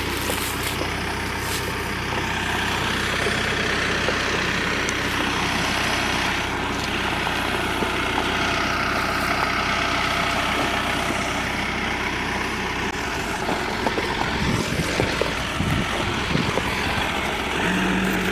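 Tractor engine running steadily with a low hum. About thirteen seconds in the low hum drops away and a few knocks follow.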